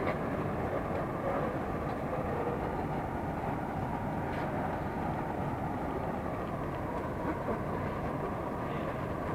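Steady hum and noise of a Moscow metro train standing at a station platform between stops, with a faint click about four seconds in.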